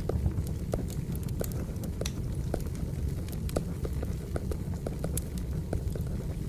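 Firewood burning: a steady low rush with frequent irregular crackles and sharp pops of the burning logs.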